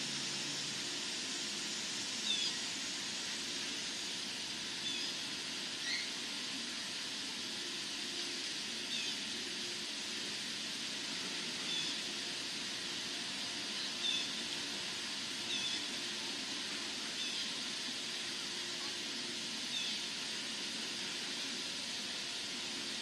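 Steady outdoor hiss with a short bird chirp every two or three seconds, about ten in all, over a faint low hum.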